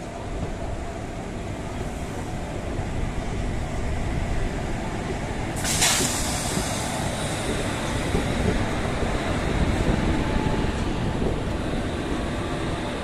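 Indian Railways passenger train running, with a steady rumble of the coach on the track. About six seconds in a sudden loud hiss cuts in briefly and fades over the next second or so.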